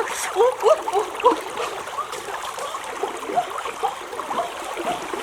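Water trickling and gurgling, with many small, irregular bubbling blips.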